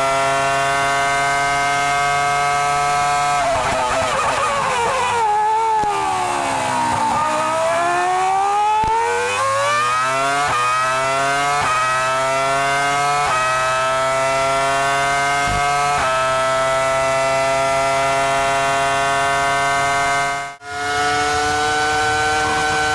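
Formula 1 V10 engine heard onboard, running at high revs. It drops through a long falling sweep of downshifts into a corner, then accelerates hard, its pitch climbing and stepping down at each of several quick upshifts. The sound cuts out for an instant near the end.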